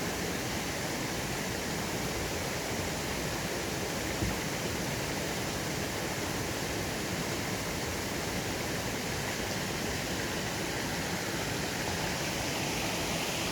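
A swollen valley stream rushing and gushing over rocks in a loud, steady roar of water. A brief low thump sounds about four seconds in.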